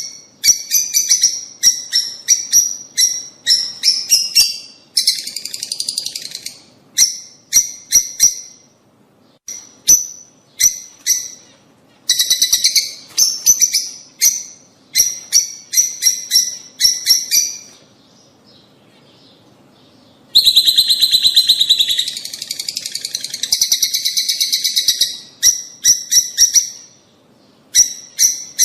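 Lovebirds chirping: sharp, high-pitched chirps in quick series, with dense bursts of fast chattering and a short lull about two-thirds of the way through.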